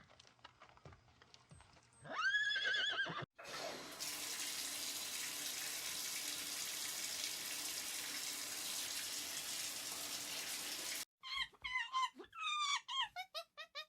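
A single high, arching animal call, then about seven seconds of steady rushing noise like running water, then a quick string of short, falling animal calls near the end.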